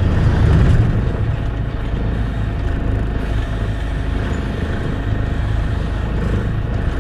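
Tractor engine running steadily with a low, even rumble, a little louder in the first second.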